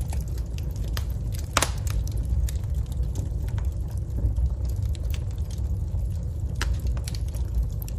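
Wood fire burning in a fireplace: irregular crackles and sharp pops of burning logs, the loudest about a second and a half in, over a steady low rumble of the flames.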